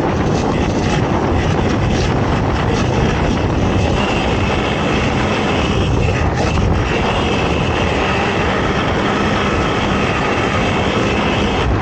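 Racing ATV engine running steadily at high revs, with a constant loud drone and rushing noise.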